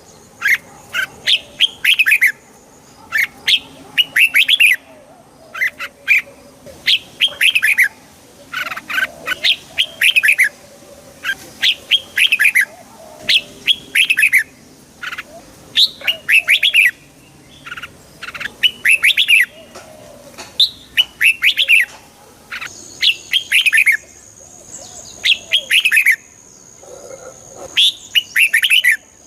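Red-whiskered bulbul singing: short, bright phrases of quick notes, repeated about once a second with brief gaps. A faint steady high tone joins about two-thirds of the way in.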